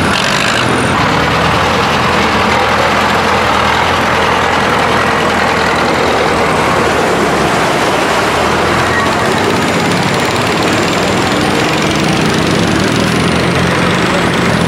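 Tractor engine running steadily and loudly.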